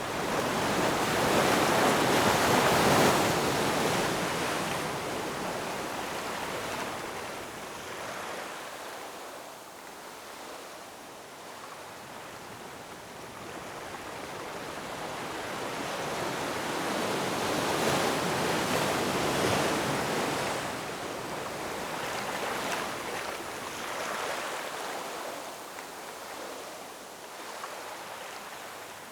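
Ocean waves breaking and washing up the shore, with no other sounds. The surf swells to its loudest just after the start, swells again about two-thirds of the way through, and eases off in between.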